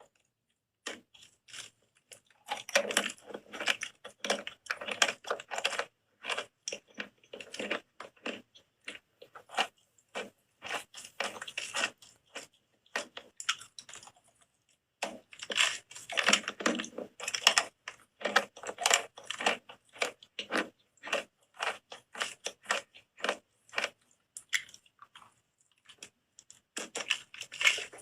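Close-up crunching and chewing of soap: dense runs of crisp crackles that start about a second in, with a short lull about halfway.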